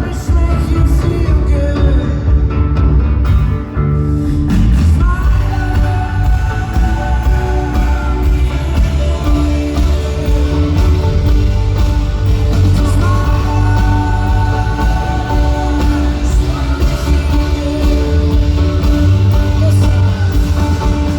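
Folk-rock band playing live through an arena PA, with guitar, bass and drums under sustained sung lines. The band drops back briefly about four seconds in, then comes back in full.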